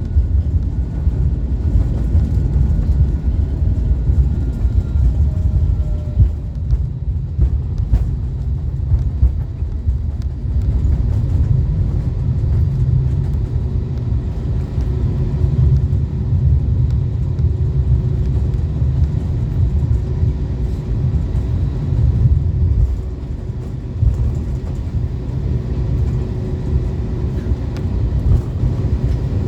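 Airbus A321neo cabin during landing: a heavy, steady low rumble from the aircraft on the runway, easing off slightly about three-quarters of the way through as it slows.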